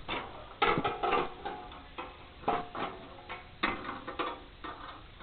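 Steel brace pieces clanking and knocking against the steel plow frame as they are handled and fitted into their holes: a dozen or so irregular metallic knocks, each ringing briefly.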